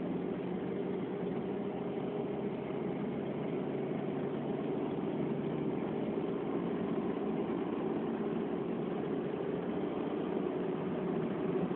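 Engine and road noise of a Nissan 1.4-litre car heard from inside the cabin, running steadily at track speed with a constant low drone.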